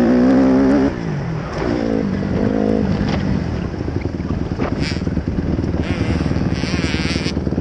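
Dirt bike engine held at high revs, dropping off about a second in, blipped briefly around two and a half seconds, then running at low revs.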